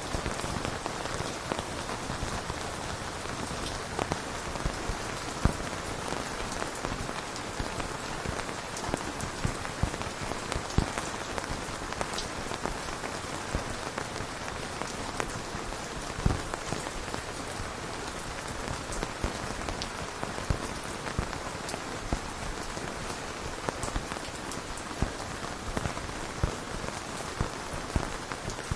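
Steady rain falling, an even hiss with individual drops tapping sharply and irregularly on a hard surface.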